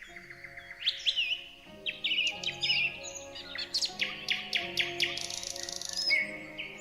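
Several songbirds chirping and calling in quick, overlapping phrases, with a rapid trill about four to five seconds in, over soft sustained background music.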